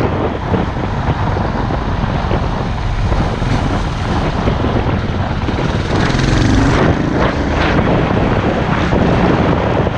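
Heavy wind buffeting on the microphone with a motor vehicle running underneath, typical of a camera carried on a moving off-road motorcycle.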